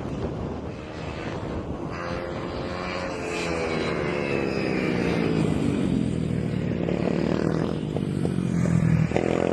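Small 110cc mini racing motorcycles at high revs on track, growing louder as they come near and falling in pitch as they pass, with another bike arriving near the end.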